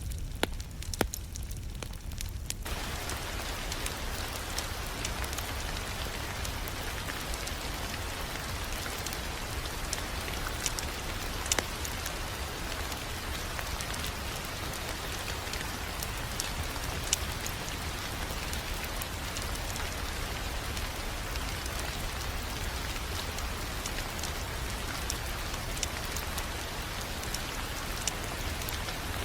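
Crackling wood fire in a fireplace: a steady rain-like hiss with scattered sharp pops and a low rumble underneath. The hiss fills in about two seconds in, after a few isolated pops.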